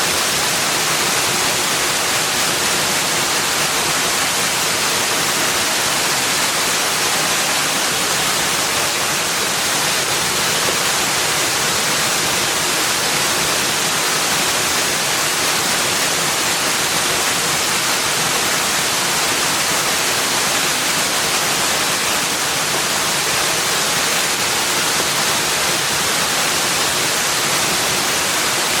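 Rushing water: a steady, unbroken bright hiss with no change in level and no separate sounds standing out.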